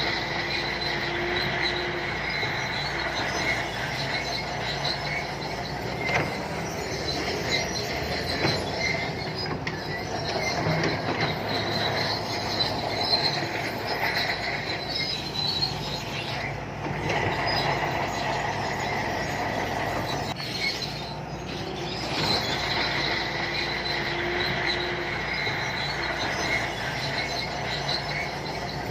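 Shantui crawler bulldozer at work: a steady diesel engine with its steel tracks squealing and clanking, the high squeal coming and going in stretches.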